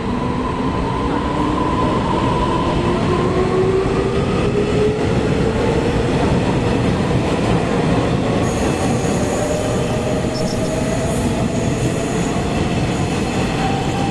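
A train running at the station, loud and steady, with a whine that rises slowly in pitch as it picks up speed. Thin high-pitched squealing comes in about halfway through.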